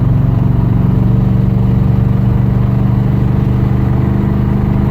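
1978 Trans Am's 355 V8, breathing through long-tube headers, 2.5-inch pipes and Dynomax Super Turbo mufflers, running steadily at a light cruise. Heard from inside the cabin, where it is nice and mellow.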